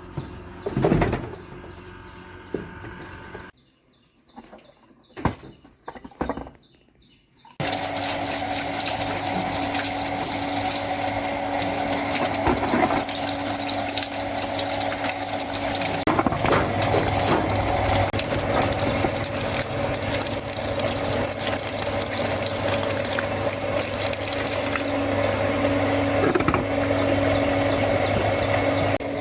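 A few knocks and clicks, then about seven seconds in a machine switches on suddenly: a steady motor hum with water rushing, running on without a break.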